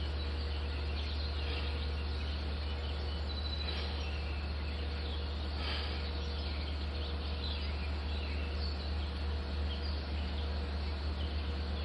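Insects and birds chirping over a steady low hum. Near the end the hum begins to pulse.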